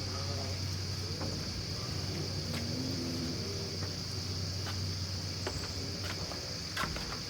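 A steady high-pitched insect chorus over a low, steady engine hum, with a few sharp knocks.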